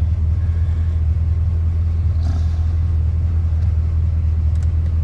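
Chevrolet 350 (5.7 L) V8 idling steadily in drive while the vehicle stands still, running with its thermostat removed.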